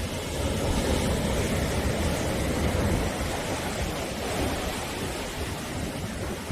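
Sea waves breaking and washing on the shore: a steady rushing surf noise that swells a little about a second in and eases slightly toward the end.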